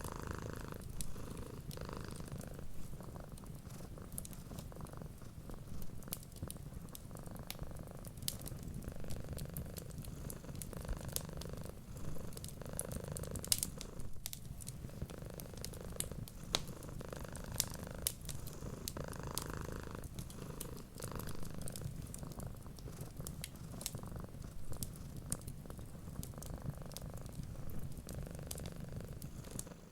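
A cat purring steadily and continuously, with the sharp, irregular pops and crackles of a wood fire scattered over it.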